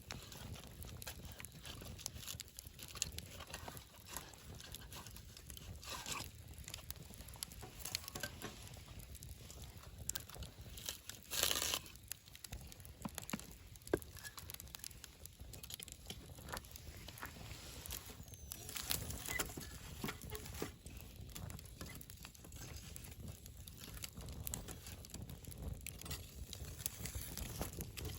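Wood campfire crackling and popping: irregular snaps over a low steady rumble of the flames. There is a louder half-second flurry of crackle about halfway through, then a single sharp pop.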